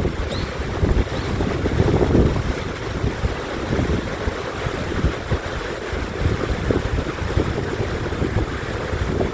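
Steady rushing of a mountain valley stream, with wind buffeting the microphone in uneven low gusts. A couple of faint, short high chirps come within the first second or so.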